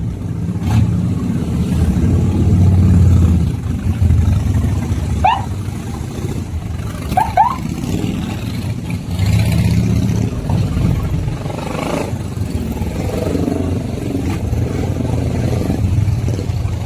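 Harley-Davidson V-twin motorcycle engine idling as it warms up, a steady low rumble that swells with a blip of the throttle at the start and again about ten seconds in. A few short, high rising chirps sound over it in the middle.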